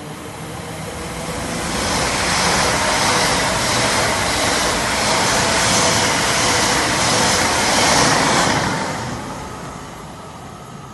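Train passing through the station. Its rushing noise swells over the first two seconds, holds loud with a repeating pulse of hiss for about six seconds, then dies away.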